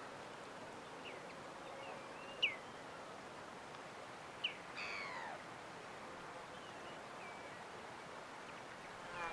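Birds chirping: short, falling chirps a second or more apart, the loudest about two and a half seconds in, and a longer falling call about five seconds in, over a steady background hiss.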